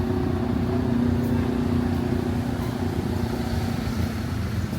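Street traffic: a motor vehicle engine running close by with a steady hum over the general road noise.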